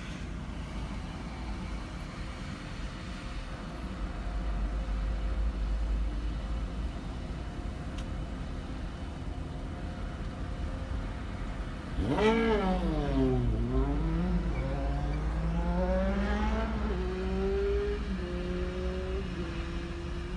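Steady low rumble of a car driving, then about two-thirds of the way in an engine revs: its pitch jumps up, falls, then climbs again over several seconds as the car accelerates.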